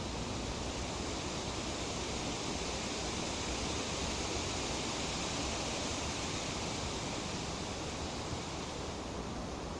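Tree leaves rustling in a light breeze: a steady, even hiss that swells slightly in the middle, as a gust passes, then eases.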